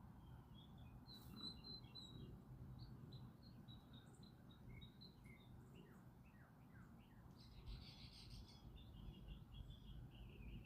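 Faint chirping of small songbirds: many short, high chirps in quick series, with a brief scratchy rustle about three-quarters of the way through, over a steady low rumble.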